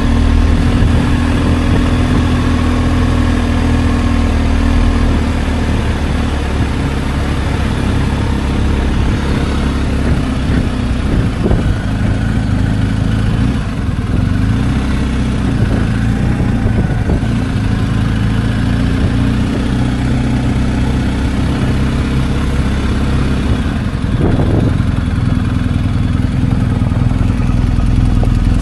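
Motorcycle engine running steadily while riding, with small shifts in pitch a few times.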